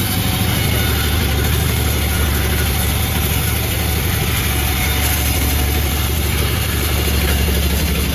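Panda36 two-stroke chainsaw engine running steadily at an even speed, with no rise or fall in revs.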